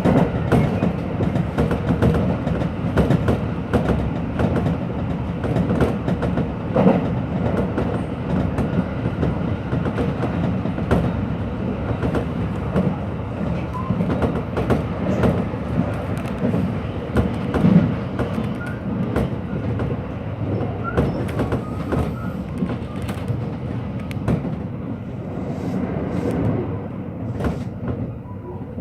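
Hanshin Electric Railway train running at speed, heard from inside the front car: a steady rumble with the wheels clattering over rail joints, easing off a little near the end.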